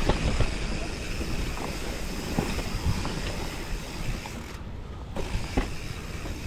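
Mountain bike ridden over a wet, rough trail: wind buffeting the microphone over a steady rumble, with scattered knocks and rattles from the bike. The hiss drops away briefly about five seconds in.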